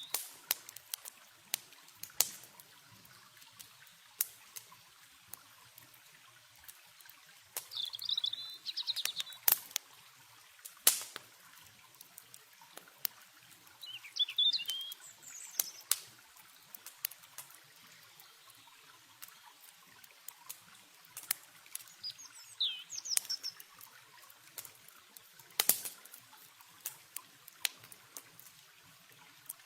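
Campfire crackling with irregular sharp pops, the loudest about ten seconds in and again near the end, over a faint trickle of river water. Small birds chirp in short high bursts a few times.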